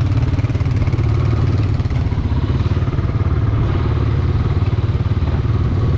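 Four-wheeler (ATV) engine running steadily while riding, a constant low rumble with no change in pace.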